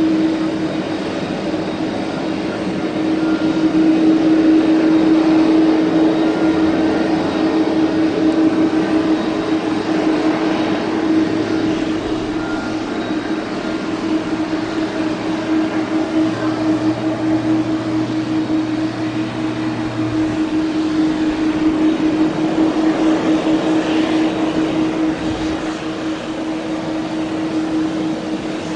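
Airbus A320neo jet engines running with a steady, loud drone, a constant humming tone held over the roar.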